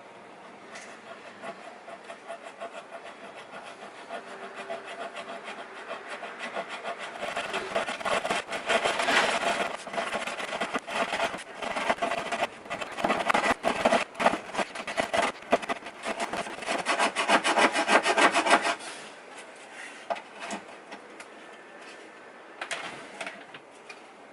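Hand-worked rubbing strokes on wood, rapid and back-and-forth. The strokes are light at first, grow louder and quicker about a quarter of the way in, and stop abruptly about three-quarters through, leaving a few scattered scrapes.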